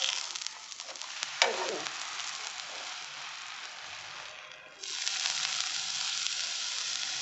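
Bread soaked in milk sizzling as it fries on a hot tava griddle, a steady hiss. A steel spatula clinks once against the griddle about a second and a half in. The sizzle dips briefly, then comes back louder about five seconds in.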